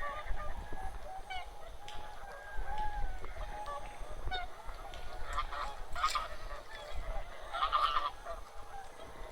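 A flock of wild geese and swans honking, with many short calls overlapping throughout and a few louder, higher calls between about five and eight seconds in.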